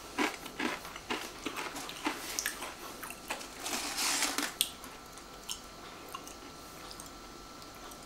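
A person biting and chewing a Pringles crisp with a dry crunch, the crunches coming thick at first and thinning out after about four seconds.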